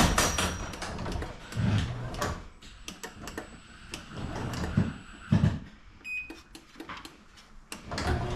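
Scattered clicks and knocks of hardware being handled, with a few duller thumps and a short high beep about six seconds in.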